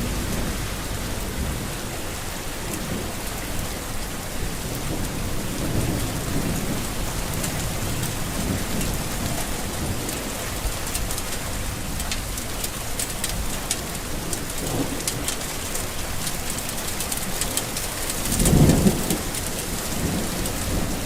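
Steady rain falling, a dense patter of drops, with low rolls of thunder under it; the loudest thunder rumble swells near the end.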